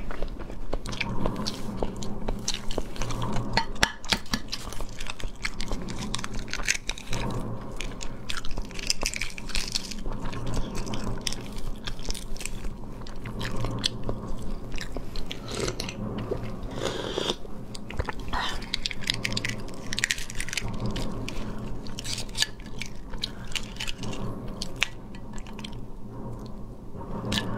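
Close-miked chewing and biting of boiled huozhuzi (partly developed fertilized eggs), mixed with many small clicks and crackles of eggshell being cracked and peeled. A steady low hum runs underneath.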